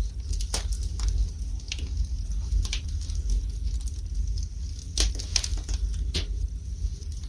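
Wood fire burning in a fireplace: irregular sharp crackles and pops over a steady low rumble, with louder pops about five and six seconds in.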